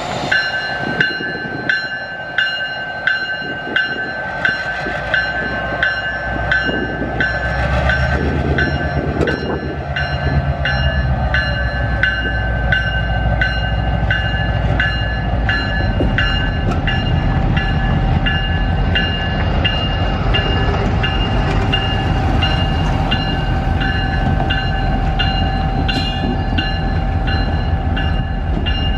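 Railroad crossing bell ringing steadily at about two strokes a second. The low rumble of a passing train builds under it from about seven seconds in and continues.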